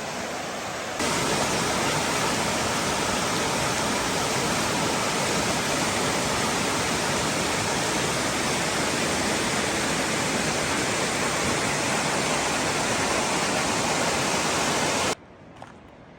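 Waterfall on a mountain creek: a steady, loud rush of falling water. It gets louder about a second in and cuts off suddenly near the end.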